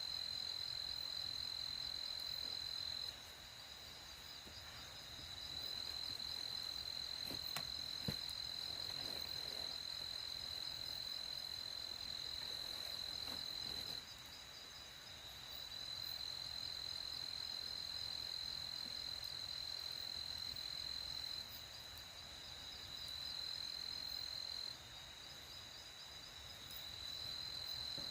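Night insects, crickets chirring in a steady high trill that drops suddenly and swells back a few times. Two sharp clicks come about eight seconds in.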